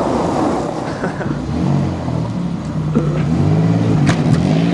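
Engine of a half-cut Pontiac car revving up and falling back several times as it is driven.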